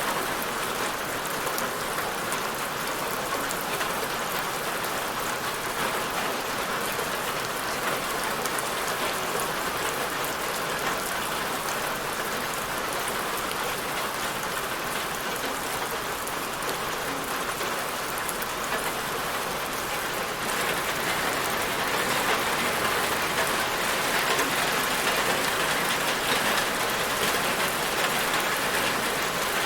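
Steady rain falling: a dense, even hiss with many fine drop ticks, growing a little louder about two-thirds of the way through.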